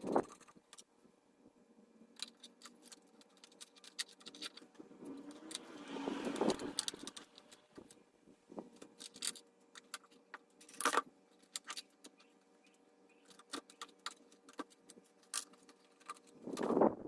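Metal parts and tools being handled: scattered clinks, knocks and light scrapes, with a longer rattling scrape about six seconds in and louder knocks near the middle and at the end.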